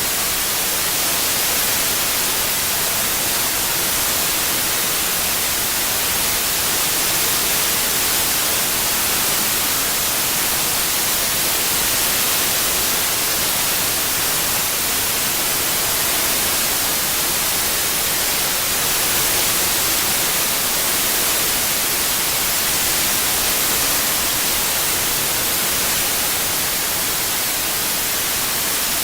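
Synthetic white noise: a steady, even hiss, bright in the highs, with no changes or breaks.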